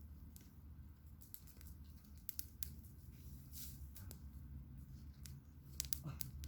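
Campfire crackling: sharp, irregular pops and snaps of burning wood, with a few louder ones near the end, over a steady low rumble.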